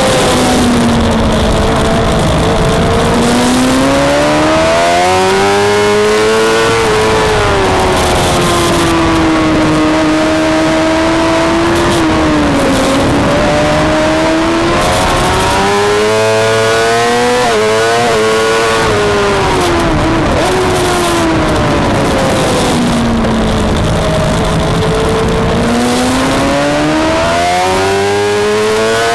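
Suzuki GSX-R600 inline-four engine at racing speed on a circuit. The pitch climbs hard through the revs, drops in sharp steps at gear changes, and falls off under braking into corners, several times over.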